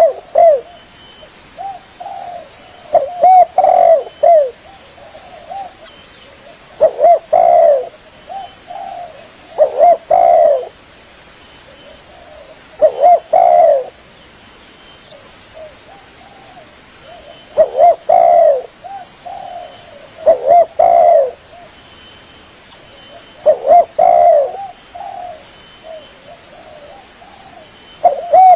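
Spotted dove (tekukur) cooing: a short phrase of a few arched, rising-and-falling coos, repeated every three seconds or so with quiet pauses between.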